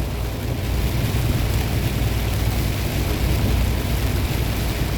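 Tractor-trailer diesel engine and road noise droning steadily inside the cab, with an even hiss of tyres on wet road.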